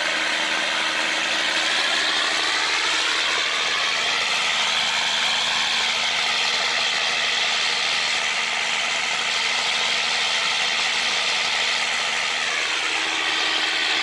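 Boat's diesel engine running steadily under load; its note rises over a few seconds a couple of seconds in, holds, then drops again near the end.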